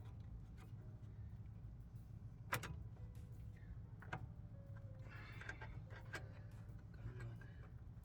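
A few sharp metallic clicks and clinks of a screwdriver and hand tools against the flywheel, the clearest about two and a half and four seconds in, over a faint low hum.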